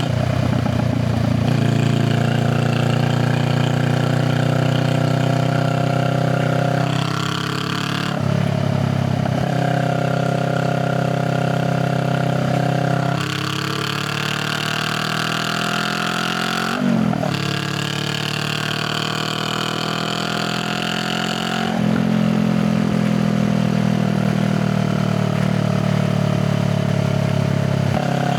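Honda Rebel 500's parallel-twin engine and exhaust under way, its pitch climbing under throttle and dropping sharply several times at gear changes, with a short sharp blip of revs about seventeen seconds in.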